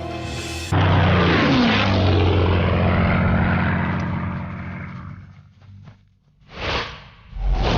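Propeller warplane flying past with its engine pitch falling as it goes by, fading out after a few seconds. Near the end come two short whooshes, the second with a deep thump.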